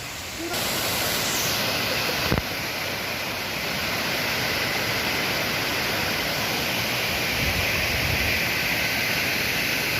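Waterfall's rushing water, a steady full roar of noise that gets louder about half a second in. A single brief click or knock comes a couple of seconds later.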